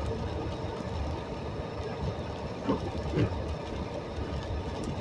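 Steady low rumble of a car driving on a wet road, heard from inside the cabin, with a couple of brief faint sounds about three seconds in.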